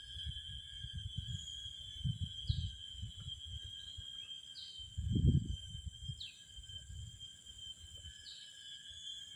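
A steady high drone of insects, with a bird giving four short, falling calls about two seconds apart. Low rumbling noise rises and falls underneath, loudest about halfway through.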